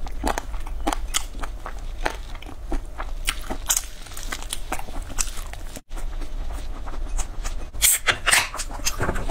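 Close-miked biting and chewing of sauce-glazed fried chicken, many short crunching clicks one after another, with a brief break about six seconds in.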